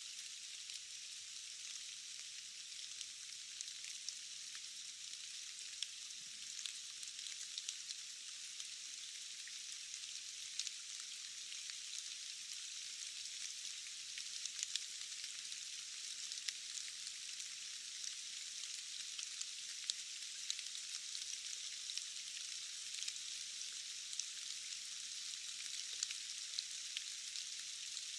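Steady rain falling, a dense even hiss with many scattered drop ticks. The sound is thin and high-pitched, with no low rumble.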